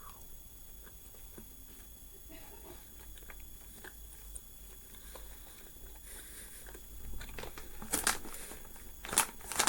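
A person chewing a large gummy candy close to the microphone: faint wet mouth clicks, with a few louder chewing noises near the end.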